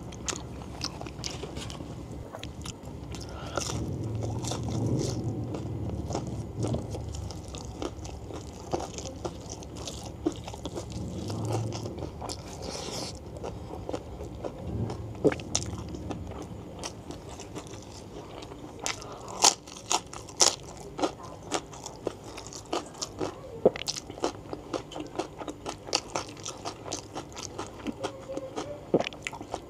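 Close-miked mouth sounds of a person biting and chewing gelatinous beef-foot tendon and fat, with many short sharp mouth clicks that come thicker and louder in the second half.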